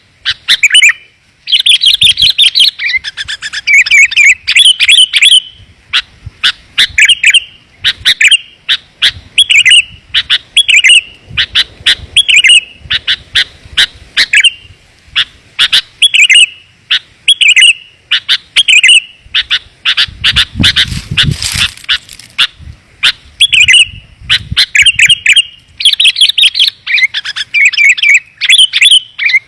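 Sooty-headed bulbul lure calls: short bubbly phrases repeated about once a second, with dense rapid chattering near the start and again near the end. A brief noisy rush about twenty seconds in.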